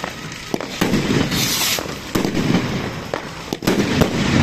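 Fireworks going off: a string of sharp bangs at irregular intervals, a few coming in quick succession near the end, with a brief hiss about a second and a half in.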